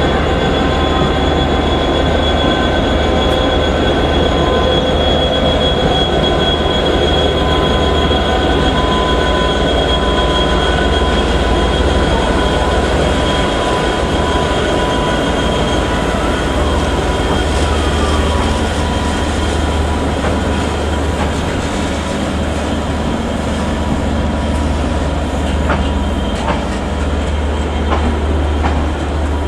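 A 201 Class diesel locomotive and its Enterprise carriages moving slowly, steel wheels squealing in several long, steady high tones over the diesel engine's low drone. A few clicks from rail joints come near the end.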